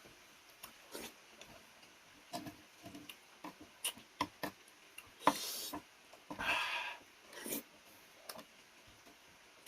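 Close-miked eating sounds: scattered wet chewing and mouth clicks, with two longer noisy stretches about five and six and a half seconds in.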